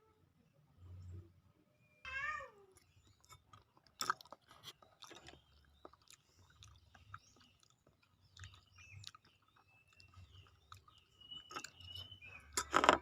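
A person chewing and eating grilled banana close to the microphone, with scattered wet mouth clicks and small crunches, louder near the end. A short, pitched, falling call sounds about two seconds in.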